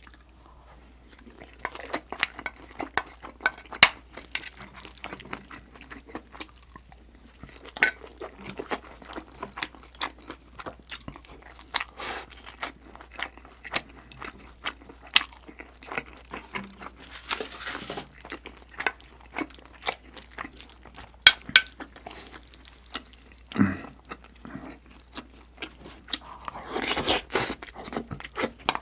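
Close-miked eating sounds: food chewed and crunched in quick, irregular bites, with sharp clicks throughout. A few longer crunching stretches come in, the loudest near the end.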